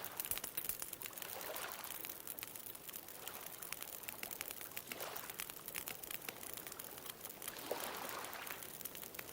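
Wood bonfire crackling with many sharp, irregular pops, over a steady wash of ocean waves.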